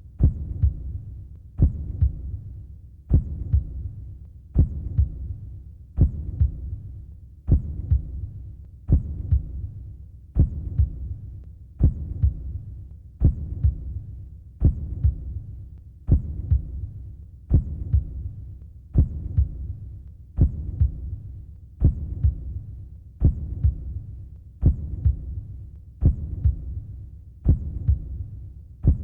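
Sound-effect heartbeat: a deep, slow thump repeating about every one and a half seconds, each beat trailing off in a short low rumble.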